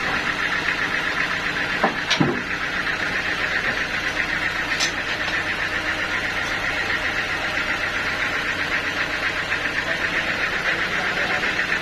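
Sawmill machinery running steadily with a fast, even pulsing hum, with a couple of sharp knocks about two seconds in.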